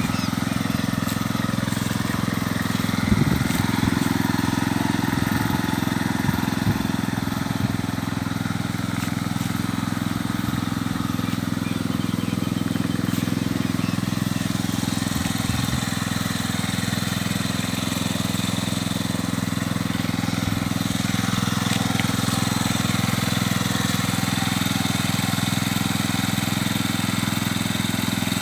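Small engine of a homemade mini tractor running steadily, with a few brief louder moments about three seconds in.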